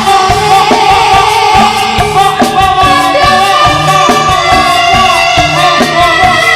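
Loud live Javanese gamelan music for a jaranan (turonggo) dance, driven by rhythmic kendang drum strokes, with pitched instruments and a singing voice.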